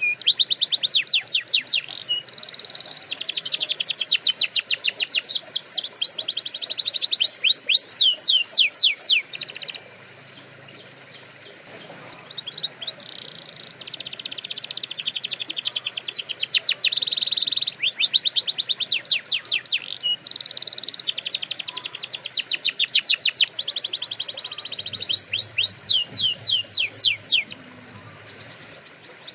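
Canary singing: long runs of rapid, repeated trilled notes and quick falling sweeps, pausing for a few seconds about ten seconds in and again near the end.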